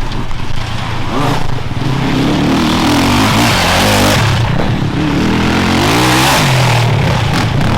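Off-road enduro motorcycle engines revving hard, their pitch climbing and dropping several times as the throttle opens and closes.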